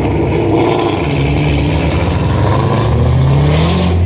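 Car engines running loudly at high revs, one revving up with a rising pitch about three seconds in before a steady low engine note takes over near the end.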